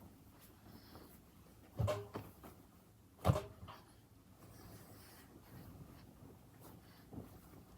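Two short knocks about a second and a half apart, with faint handling noise between them.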